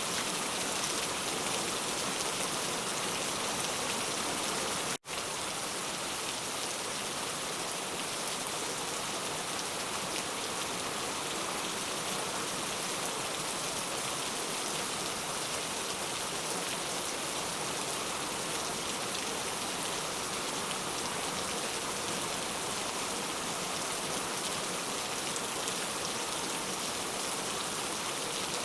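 Steady rain falling, an even hiss of many drops with no thunder. The sound cuts out for an instant about five seconds in, then carries on unchanged.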